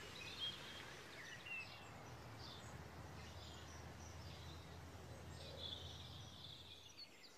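Faint outdoor ambience of scattered bird chirps over a low steady hum that fades near the end.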